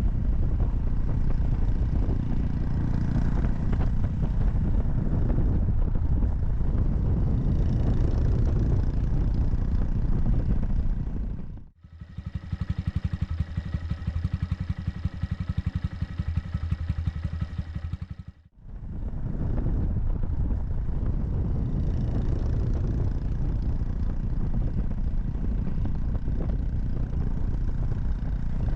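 Honda Monkey 125's single-cylinder four-stroke engine running on the move, mixed with a dense low rumble of riding noise. Twice the sound cuts off abruptly; between the cuts the engine runs at a steady, even putter.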